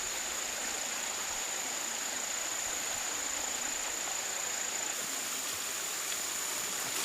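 Steady hiss of wind buffeting the microphone outdoors, with a continuous thin high-pitched whine running under it.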